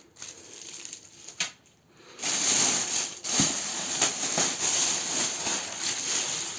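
Packaging rustling and crinkling as it is handled, faint at first and much louder from about two seconds in, with a few small knocks.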